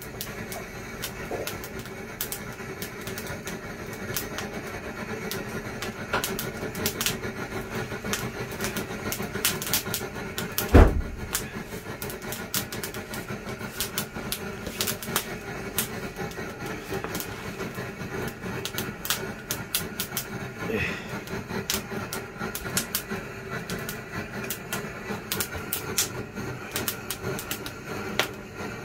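Burning firewood crackling, with scattered sharp pops over a steady low background, and one loud thump about eleven seconds in.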